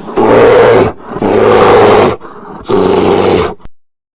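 Bear roaring three times, each call loud and about a second long with short pauses between.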